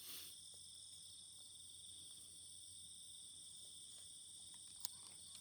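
Night chorus of crickets: a steady, high, continuous trilling. A single faint click sounds near the end.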